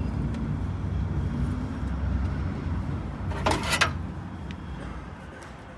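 Low rumble of a road vehicle's engine that eases off over the last couple of seconds. A short burst of clattering noise comes about three and a half seconds in.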